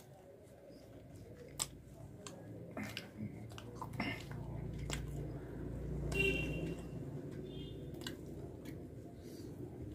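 Close-miked eating sounds: chewing with many short wet mouth clicks and smacks, while fingers tear soft puri on a steel plate.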